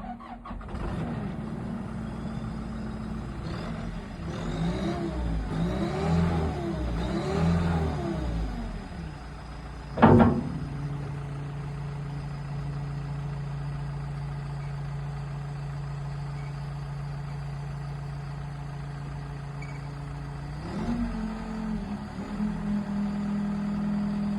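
John Deere 344J wheel loader's 4045T four-cylinder turbo diesel starts up and is revved three times, rising and falling in pitch. About ten seconds in, a single loud bang is the loudest sound. The engine then idles steadily, and near the end it speeds up and holds a higher speed.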